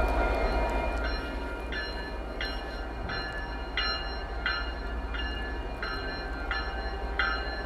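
A railway bell ringing steadily, about one and a half strokes a second, starting about a second in, over the low steady rumble of idling diesel locomotives.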